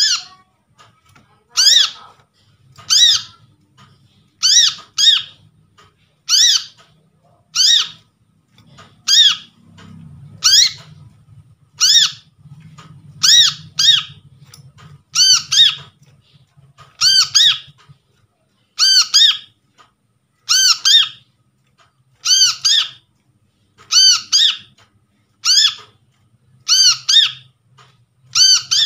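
Brown-throated sunbird (kolibri kelapa) giving short, sharp, high chirping calls, repeated about every one and a half seconds, some of them doubled.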